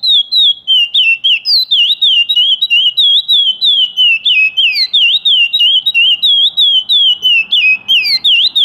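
Curió (chestnut-bellied seed-finch) singing the paracambi song type: a continuous run of rapid, clear whistled notes sliding down and up in pitch, several a second.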